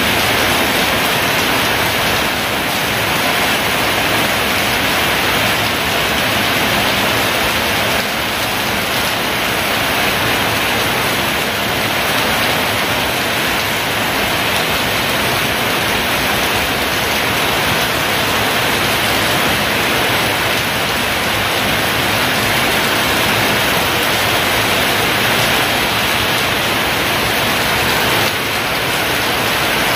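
Heavy rain pouring down steadily, a dense, even hiss with no thunderclaps.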